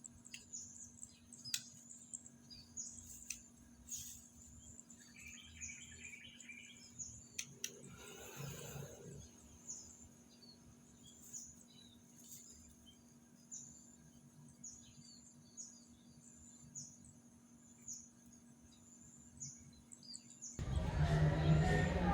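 A bird giving short, high, falling chirps over and over, about one every half second to a second, with a few faint clicks and a brief rustle about eight seconds in. Near the end a much louder sound cuts in.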